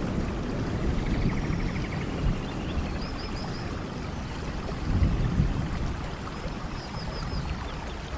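Steady heavy rain, with a low rumble of thunder that swells about five seconds in. Faint short high chirps come twice over the rain.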